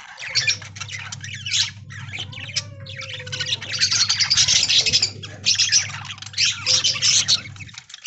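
A flock of budgerigars chattering and squawking together in a dense, continuous stream of overlapping short calls. A low steady hum runs underneath and cuts off near the end.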